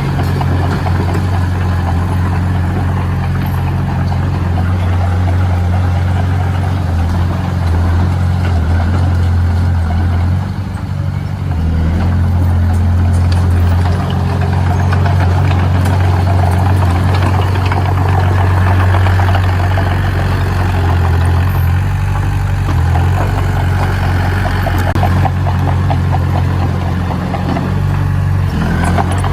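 Heavy machine's engine running steadily under a low, even note with a rough clatter over it; the note dips briefly about ten seconds in, then picks up again.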